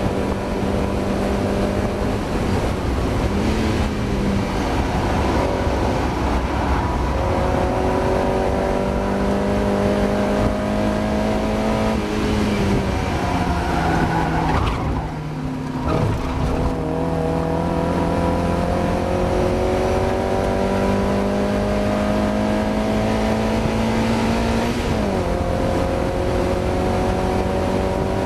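Mazda MX-5 four-cylinder race engine heard from inside the car at racing speed, its note climbing steadily under power and dropping sharply at gear changes near 3, 12 and 25 seconds in. About halfway through the engine briefly lifts off and comes back on before pulling again. The car is racing with an engine misfire.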